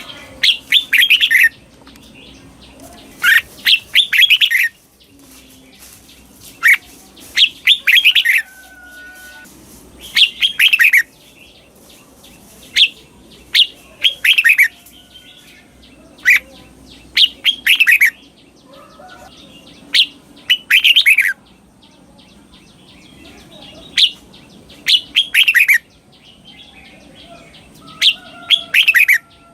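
Red-whiskered bulbul singing loud, short phrases of quick falling notes, one phrase every two to four seconds. It is the doubled (เบิ้ล) song style that keepers play to caged bulbuls to learn.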